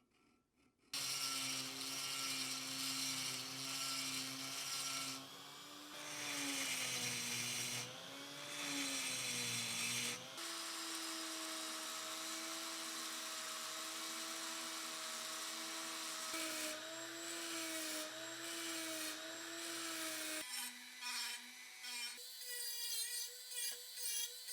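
A high-speed rotary grinder whining as it grinds down the cast-iron vise body. It starts about a second in, its pitch sags and wavers under load for a few seconds, and near the end it cuts in and out in short bursts.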